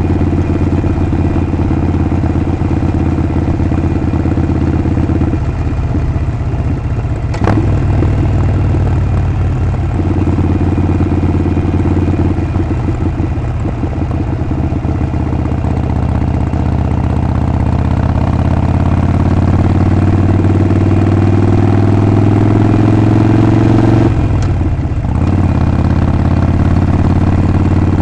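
Harley-Davidson Sportster 48's 1200 cc air-cooled V-twin running under way, its exhaust note dipping briefly a few times and climbing steadily in pitch through the second half as the bike accelerates. A single sharp click about a quarter of the way in.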